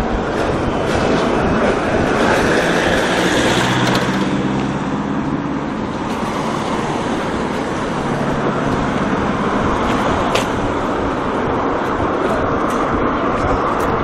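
Motor traffic passing close by on a street: a steady rush of engine and tyre noise, with an engine hum standing out twice.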